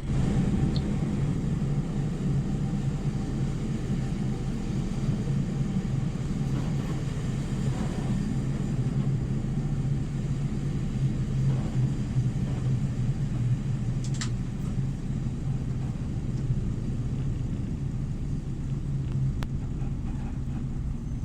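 Steady low rumble of a train, with one brief sharp click about fourteen seconds in.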